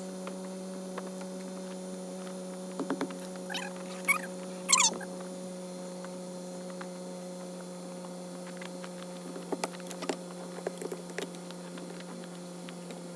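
A steady low hum, with two short high squeaks about four and five seconds in and a few light clicks later on.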